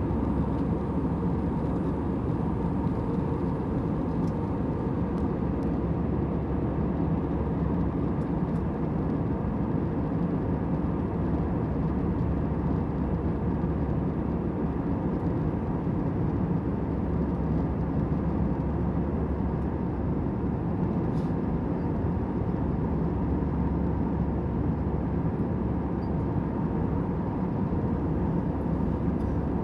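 Steady cabin noise of an airliner in flight, heard from a window seat: an unbroken low hum and rush that stays at an even level.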